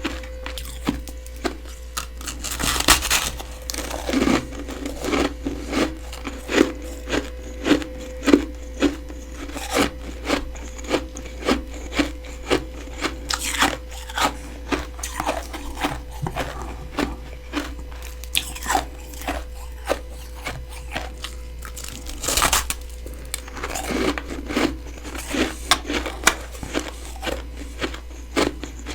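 Close-miked biting and chewing of freezer frost built up by a humidifier: a steady run of crisp crunches, several a second, with a few louder bites, around 3, 13 and 22 seconds in. A steady low hum runs underneath.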